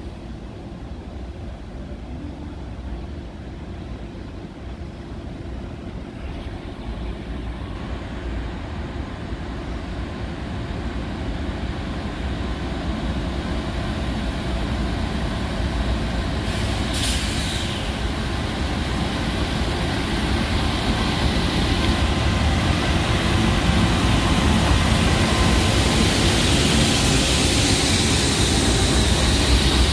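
Diesel locomotive hauling a container freight train, approaching and passing close by. Its engine and wheel noise grow steadily louder, with a short hiss a little past halfway and a rising rush of high wheel-and-rail noise near the end as the locomotive draws alongside.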